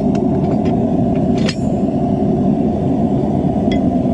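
Forge running with a steady low roar, with a few sharp clinks of steel pieces being handled.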